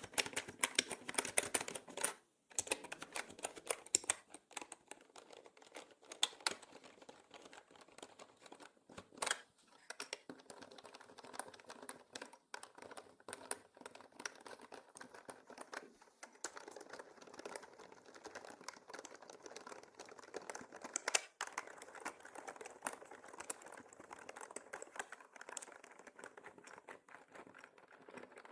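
Mechanical keyboard typing: a fast, continuous run of key clicks and clacks, broken by a few brief pauses.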